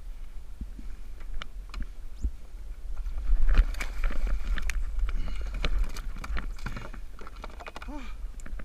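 Scattered knocks, clicks and rubbing of gear being handled on a kayak, busiest in the middle, over a steady low rumble of wind on the microphone.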